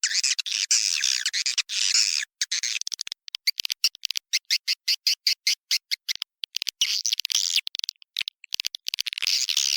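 Swiftlet lure call: a recording of swiftlets twittering inside a swiftlet house, a dense, high chirping chatter. In the middle it breaks into a fast run of short, separate chirps before the dense twittering returns near the end.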